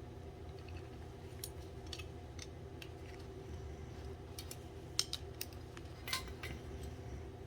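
Scattered sharp metallic clicks and clinks of hand tools and small metal parts being handled, including a short rattle about six seconds in, over a steady low hum.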